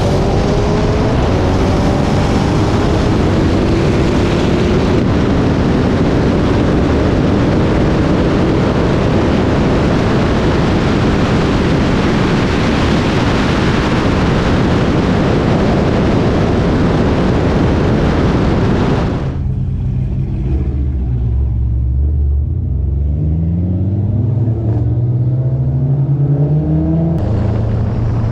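A tuned car engine at full throttle during a race. The engine pitch climbs at first, then a loud dense rush of engine and wind noise holds for about nineteen seconds. The rush cuts off abruptly, leaving the engine note rising and falling at lower power.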